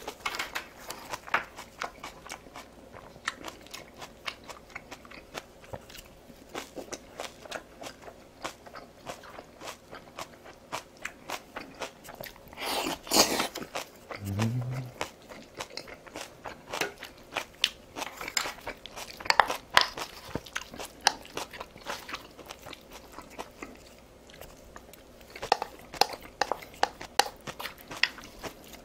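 Close-miked chewing and crunching of battered deep-fried food, crisp crackles and wet mouth sounds throughout. A louder rush of noise just before halfway is followed by a short low hum.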